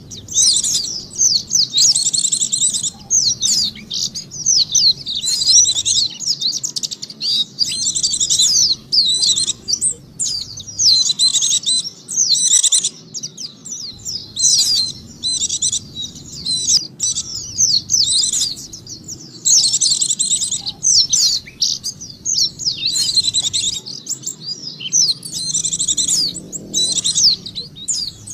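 White-eye (pleci) song played as a bird-catching lure call: rapid, high twittering phrases, each about one to two seconds long, repeated with short breaks.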